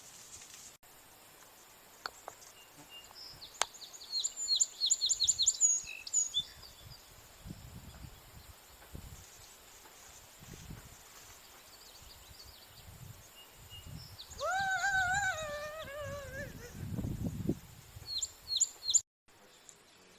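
Birds chirping outdoors in two quick runs of short, rapid notes, with a longer wavering call that slides down in pitch about two-thirds of the way through, over low rumbles of handling or wind.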